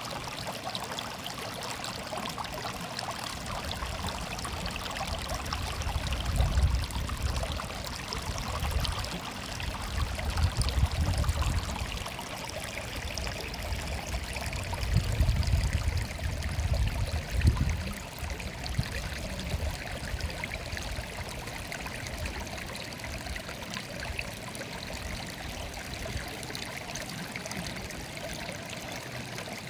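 A stream babbling and trickling steadily, with a low rumble swelling up several times in the middle.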